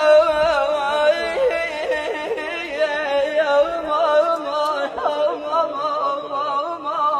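A voice singing a long, wavering Arabic folk-style melisma without words, the pitch bending and trembling as it is held.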